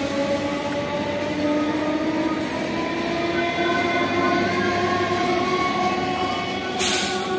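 Indian Railways suburban electric multiple-unit (EMU) local train running along the track: a steady rumble of wheels on rail with several whining motor tones that climb slightly in pitch. A brief hiss comes about seven seconds in.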